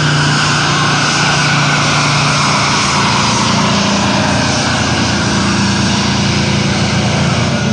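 Pulling tractor's engine running loud and steady at high revs under load while it hauls the brake sled down the track.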